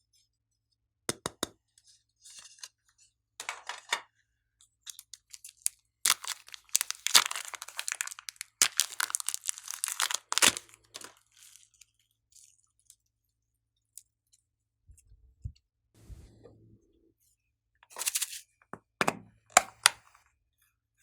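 Slime being worked by hand, giving irregular crackling, popping and crunching, densest in a long run in the middle and again in a short burst near the end, with quiet pauses between.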